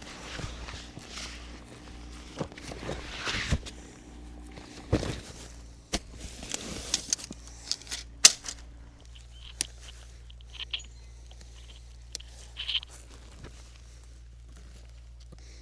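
Handling noises: scattered rustles and sharp clicks, one louder knock about eight seconds in, over a steady low hum.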